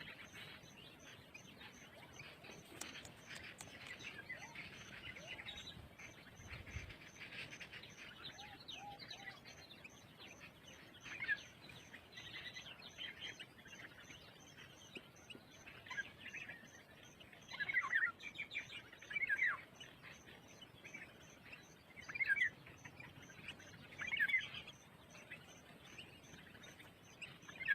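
Birds chirping: a string of short chirps and calls, with several louder sharp calls in the second half. Under them runs a steady high insect trill that pulses about three times a second.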